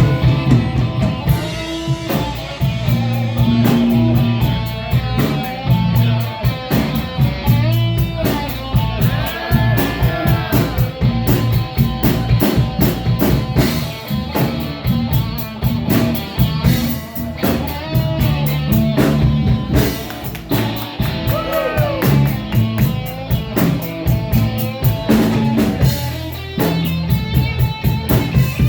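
A band playing blues-rock: an electric guitar lead with bent notes over a drum kit.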